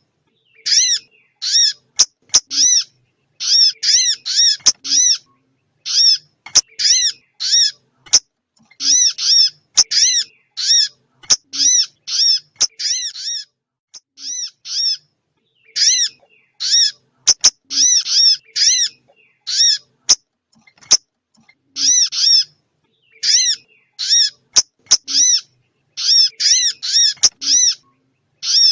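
Bird-lure call recording playing: high, short arched chirps repeated in quick runs of two to five with brief pauses between the runs, the calls of small birds played to draw wild birds onto the lime-stick, with a few sharp clicks.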